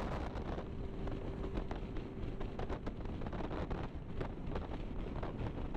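Wind buffeting the microphone of a moving motorcycle riding into a strong headwind, over the steady rumble of the engine and road.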